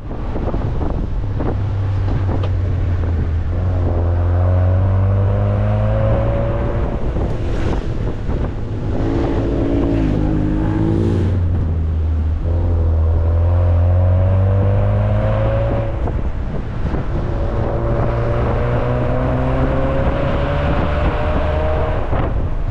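A car's engine pulling through its revs as it drives: the note rises steadily in several long pulls and drops back between them, over a constant drone of road and wind noise.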